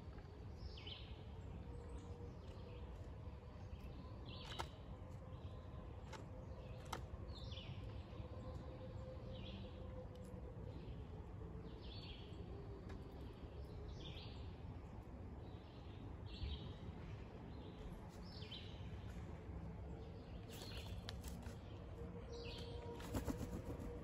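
Short, falling bird chirps repeated every second or two over a quiet outdoor background, with a few sharp knocks from a pileated woodpecker's bill striking the wooden timber as it digs into an ant nest.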